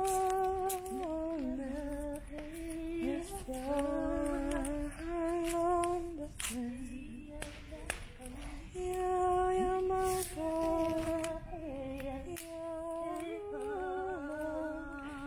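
A person humming a slow tune without words, holding each note and stepping from note to note in short phrases.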